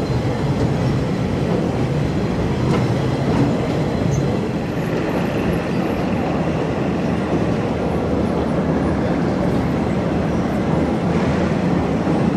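Passenger train running along the track, heard from an open carriage window: a steady rumble of wheels on the rails.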